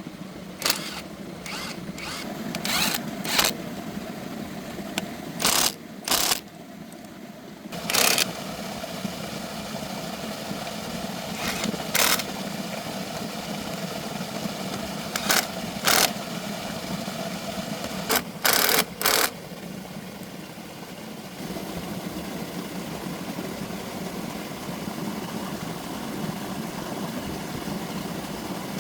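Repaired tractor engine running steadily, broken by about a dozen short, sharp bursts of noise, several of them in quick pairs. The engine note sinks for about a second around six seconds in and grows a little louder later on.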